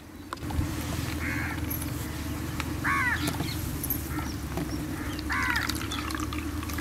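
A bird calls three times, each a short harsh call, spaced about a second and a half to two and a half seconds apart, over a steady low hum.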